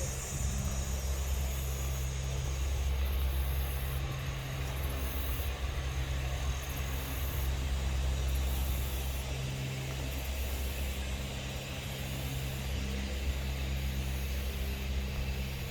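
Steady low rumble with a hiss over it: outdoor background noise, like distant road traffic.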